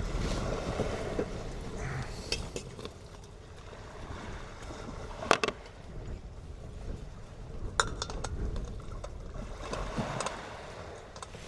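Steady wind and surf in the background, with a few sharp clinks of glassware or metal being handled, the loudest about five seconds in and another near eight seconds.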